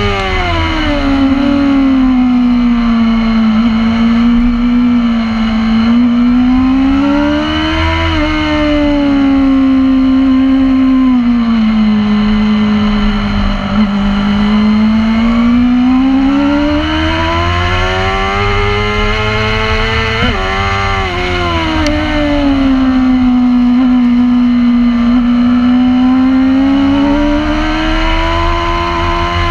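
Racing motorcycle engine running hard on a track lap, its pitch rising and falling smoothly with speed through the corners and dropping sharply about twenty seconds in, over wind rumble on the onboard microphone.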